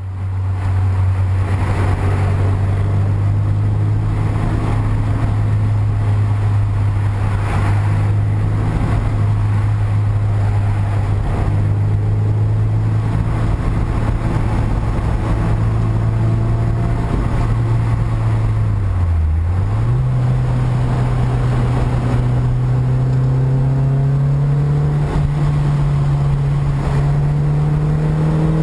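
Sports car engine heard from inside the cabin, running at a steady pace. About two thirds of the way in the note dips briefly and comes back higher, like a gear change, then rises slowly through the revs near the end.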